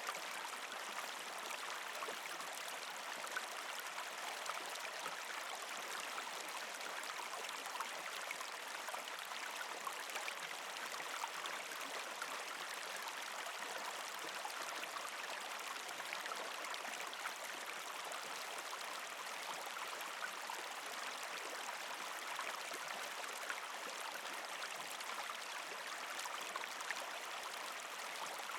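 Creek water flowing and gurgling steadily past ice and rocks, with a dense patter of small splashes and trickles.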